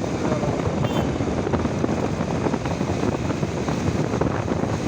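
Motorcycle riding noise: wind rushing over the microphone together with the engine and road noise, steady throughout.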